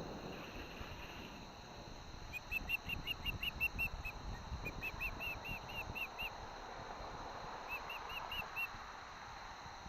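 Osprey calling: three runs of short, sharp whistled chirps, about six a second, the first run of about a dozen notes and each later run shorter. Underneath, wind buffets the microphone with a low, gusty rush.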